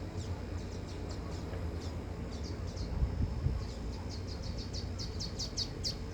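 Small birds chirping: a run of short, high chirps, each sliding downward in pitch, coming faster near the end, over a low steady rumble.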